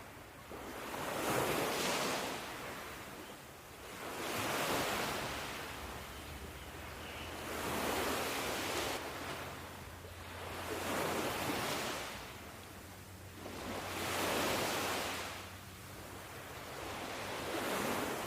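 Ocean waves breaking and washing on a shore in a slow, even rhythm, one surge of surf about every three seconds.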